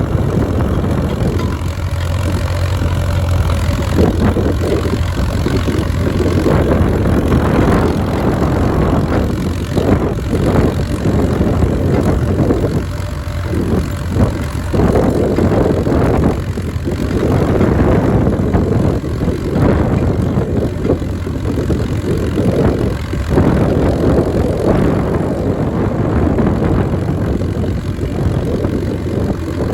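Case DC tractor's four-cylinder engine running steadily while pulling a mouldboard plow, its level rising and falling a little throughout.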